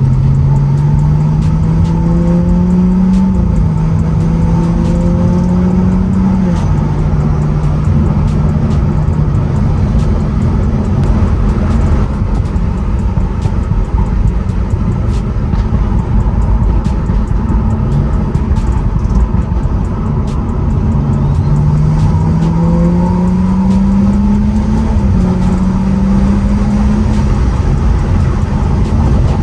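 BMW 335i's N55 turbocharged inline-six with a catless downpipe, heard from inside the cabin while driving through the gears. The engine note climbs and drops at an upshift twice in the first seven seconds, runs steadily for a while, then climbs again to another shift about 25 seconds in.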